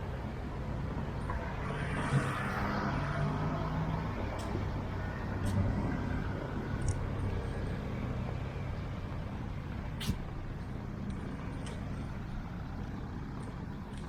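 Road traffic passing along a busy street: vehicle engines running, with a louder vehicle going by about two seconds in, accompanied by a brief hiss. A few sharp clicks follow later.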